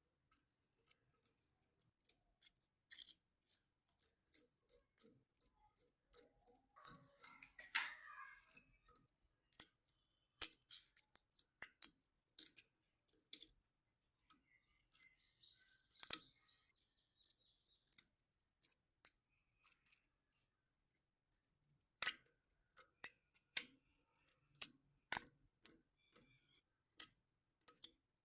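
Irregular sharp, light clicks and taps of small metal parts being handled and worked, a few a second with short gaps, and a brief scratchy scrape about a third of the way in.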